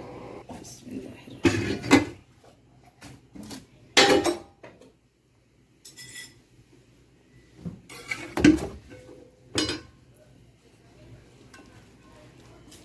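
Kitchen cookware and utensils clattering: a spoon knocking and scraping against a pot and dishes in irregular bursts, the loudest a few seconds in, about four seconds in and near the middle.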